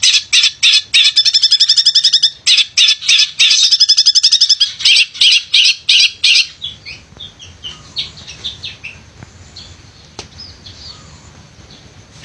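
Long-tailed shrike singing fast trilled runs of rapidly repeated notes in stop-start bursts. After about six seconds the song breaks off into scattered, much softer chirps.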